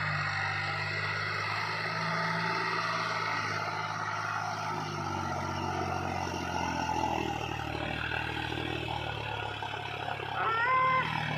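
Diesel tractor engine running steadily under load while pulling a loaded sugarcane trolley, its pitch easing a little lower past the middle. A short high tone sounds briefly near the end.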